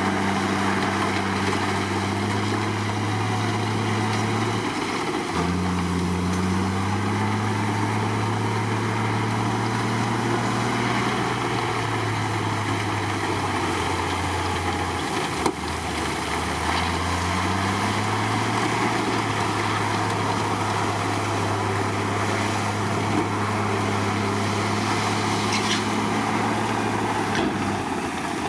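Komatsu D53 bulldozer's diesel engine running under working load, its pitch dropping and rising several times as it lugs and recovers, with a single sharp knock about halfway through.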